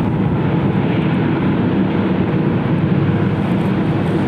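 Jet airliner engines running steadily, an even rushing hum with a low drone that holds level throughout.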